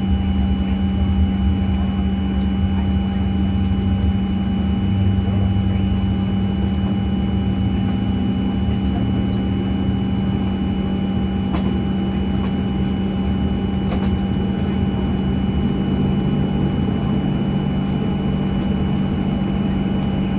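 Steady drone of a Boeing 737-900's systems heard inside the cabin, with a strong even hum and two fainter high steady tones over a low rumble, and a few faint clicks.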